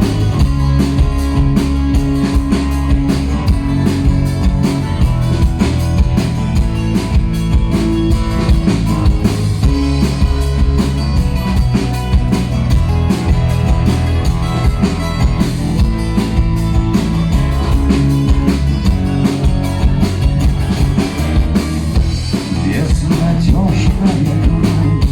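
A band playing an instrumental passage of a rock song between verses: guitars and drums keep a steady beat, with no singing.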